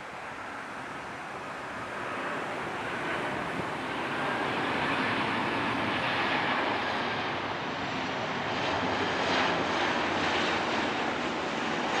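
Boeing 737-800 jet airliner on approach to land, the rushing noise of its two turbofan engines and airframe growing louder over the first few seconds as it draws near, then holding steady.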